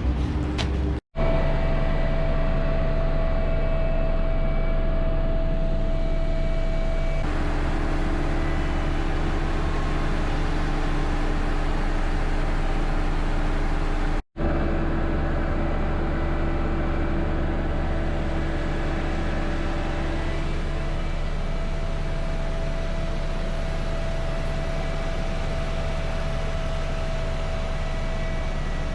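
Heavy diesel farm machinery running steadily, a deep engine drone with a few higher whining tones over it, broken by two brief dropouts, about a second in and about halfway through.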